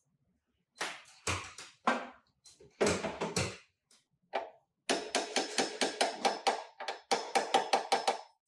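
Hammer blows in auto body repair: a few scattered strikes, then a fast, even run of about five a second from about five seconds in.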